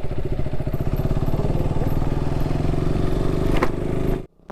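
KTM Duke 200's single-cylinder engine running at steady speed while riding, with a rapid even beat of firing pulses. A single click about three and a half seconds in, and the sound cuts off abruptly near the end.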